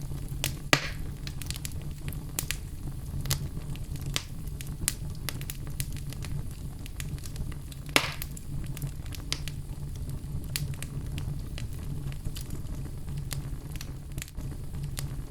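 Wood fire crackling in a fireplace: irregular sharp crackles and snaps over a steady low rumble, with two louder pops, one about a second in and one about eight seconds in.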